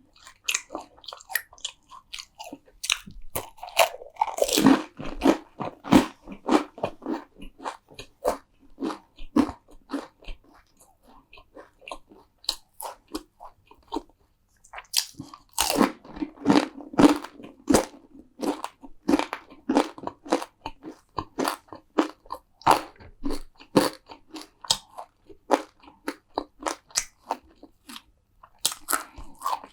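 Crisp food being bitten and chewed with loud crunches, in two bouts; the second starts about halfway through, after a few quieter seconds.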